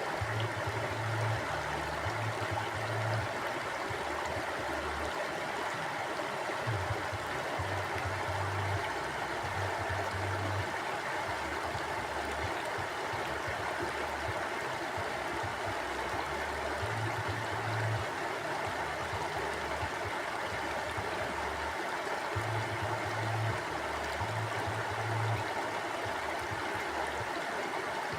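Mountain stream flowing: a steady, even rush of water, with a faint low rumble that comes and goes underneath.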